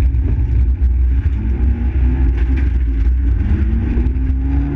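Fiat Seicento rally car's engine heard from inside the cabin under acceleration on a gravel stage: the engine note climbs, drops back about three and a half seconds in at a gear change, then climbs again over a steady low rumble. A few short ticks of loose stones are heard against the car.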